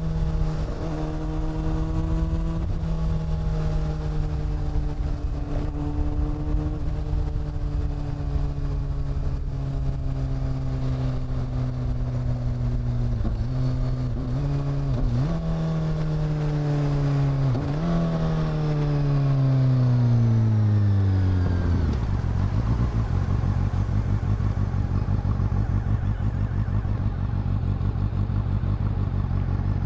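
Honda CB400 Super Four's inline-four engine and exhaust running at a steady pitch while riding. About halfway through the pitch dips and rises a couple of times; then the engine note falls away as the bike slows, and it settles to a low, steady idle for the last third.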